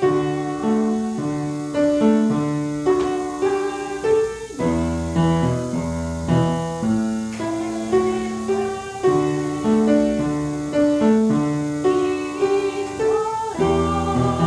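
Instrumental music led by piano, slow held chords; a deeper bass line joins about four and a half seconds in.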